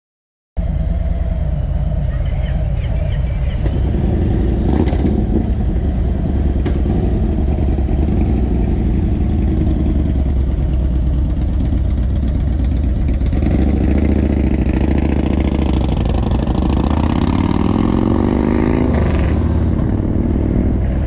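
Harley-Davidson Tri Glide's V-twin engine running steadily while riding. It cuts in after half a second of silence, and near the end it revs up, its pitch rising as it accelerates.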